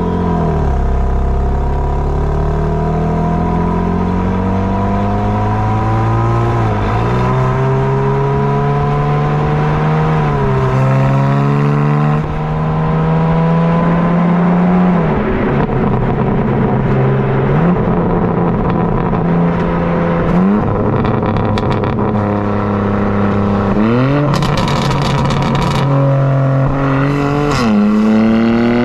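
BMW G82 M4's twin-turbo 3.0-litre S58 straight-six exhaust under acceleration. The engine note climbs in pitch and drops sharply again and again, as at gear changes, with brief crackles near the end.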